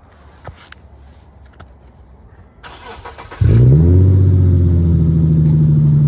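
Infiniti G35x's 3.5-litre V6 cold start through an ISR single-exit catback exhaust. After a few faint clicks, the starter cranks briefly about two and a half seconds in. The engine then catches loudly with a quick flare in pitch and settles into a steady idle.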